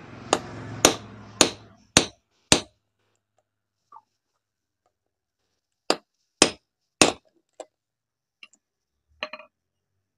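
Hammer tapping the angle grinder's large gear onto its spindle to seat it. Five sharp metal strikes come about two a second, then after a pause three more, followed by a few lighter taps.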